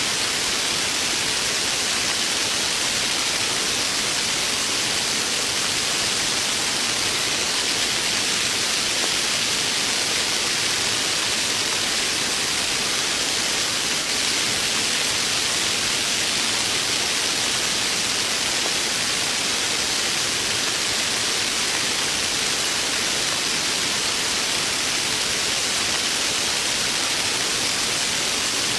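Heavy rain falling steadily: an even, unbroken hiss at a constant level.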